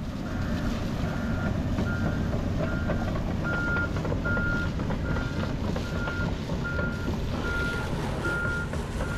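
A heavy machine's backup alarm beeping about once every 0.8 seconds, growing louder a few seconds in, over the steady low rumble of a diesel engine running.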